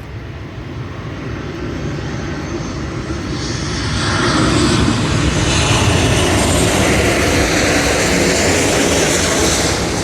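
Jet airliner passing low overhead on its landing approach, its engine noise swelling to a loud rushing roar about four seconds in and starting to fade near the end.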